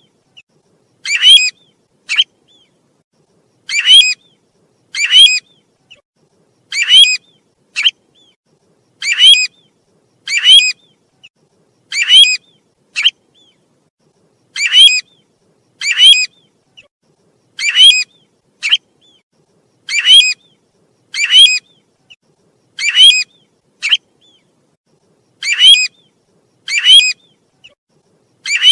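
Call of the bird known in Vietnamese as 'tu huýt', played as a looped lure recording: short, clear notes in groups of two with a fainter short note after, repeating at about one note a second in an even pattern.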